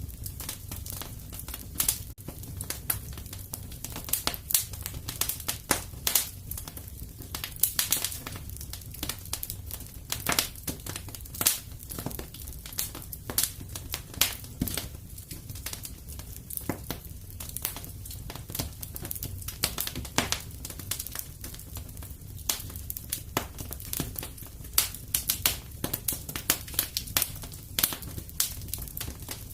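Fire crackling in a fireplace: irregular pops and snaps, some louder than others, over a steady low rumble.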